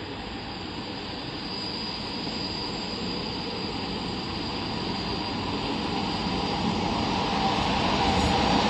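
A 441-series electric locomotive hauling freight wagons approaches. Its running rumble grows steadily louder, with a faint high whine over it.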